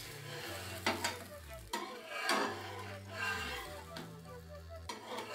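Egg-coated chapati sizzling on a nonstick tawa, with a few short scrapes of a spatula working under it against the pan. Background music with a bass line plays underneath.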